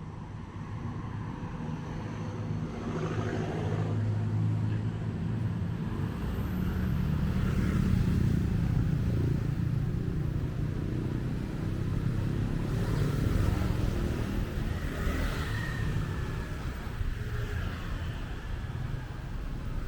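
Road traffic: vehicle engines running past, the rumble swelling as vehicles draw near about four seconds in and again in the second half, then easing off.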